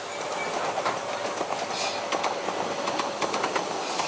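Electric express train rolling slowly past, its wheels clicking and clattering over rail joints and points.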